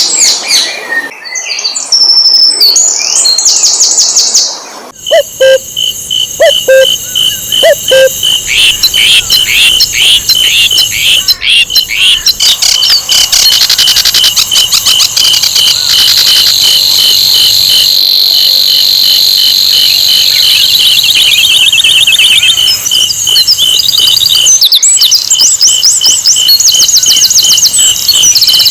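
Sikatan londo flycatcher song: a busy run of high chirps and trills, over an evenly repeated short note that goes on through most of the stretch. It is used as a lure recording to set other songbirds singing.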